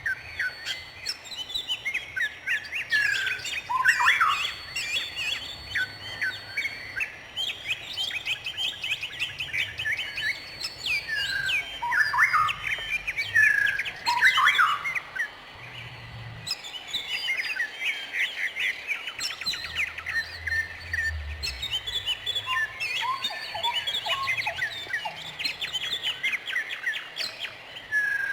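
Several songbirds chirping and calling at once, a dense chorus of short chirps, quick falling whistles and an occasional held high note.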